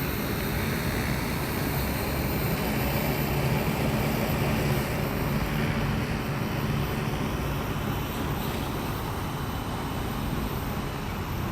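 Rotors of a 15-litre agricultural spraying drone running in flight: a steady whirring hum, a little louder in the middle and easing off slightly toward the end.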